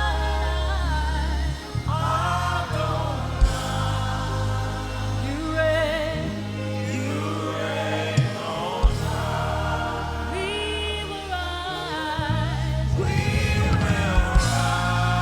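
Gospel worship song: a choir and lead voices singing with sustained bass and keyboard chords and a few sharp drum hits.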